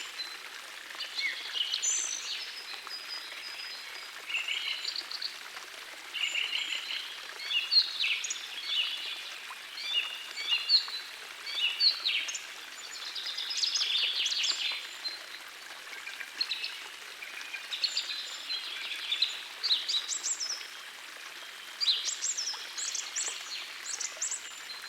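Several songbirds singing in short, overlapping high-pitched phrases over the steady rush of a gentle forest stream.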